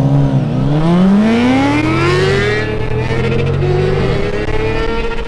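Car engine accelerating hard, its pitch climbing steadily as it revs up, then dipping with a gear change about four seconds in before climbing again.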